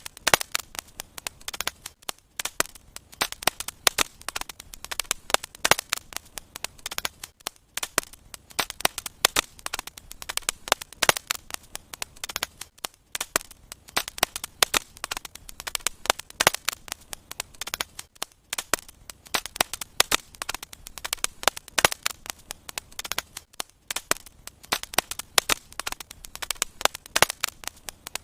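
Wood fire in a fireplace burning and crackling: many small irregular pops and snaps.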